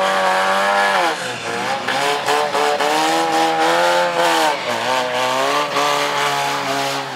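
Demolition derby car engines revving hard, their pitch repeatedly dropping and climbing again as the drivers back off and floor it.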